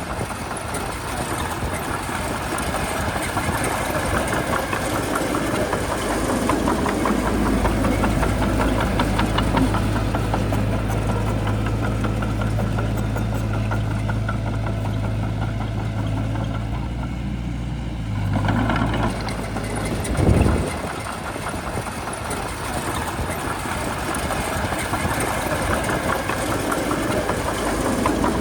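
Shantui bulldozer's diesel engine running steadily under work, with a deep steady hum through the middle and a short louder thud about two-thirds of the way through.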